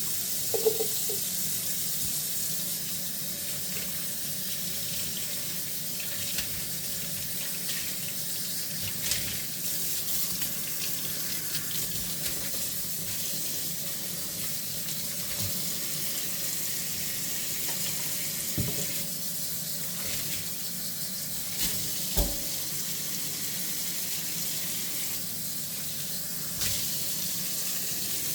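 Tap water running steadily into a kitchen sink during hand dishwashing, with occasional clinks and knocks of dishes, the loudest about a second in and again near 22 seconds in.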